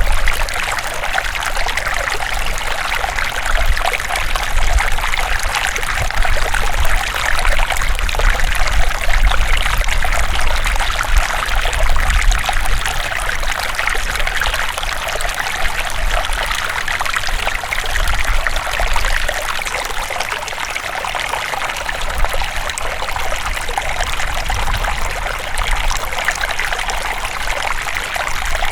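River water flowing, a steady trickling and rushing with a low rumble underneath.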